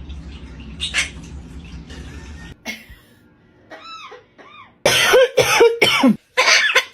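A parrot mimicking a human cough: a run of loud, harsh coughs in the last two seconds. Before them come four short whistled chirps, each rising and falling in pitch.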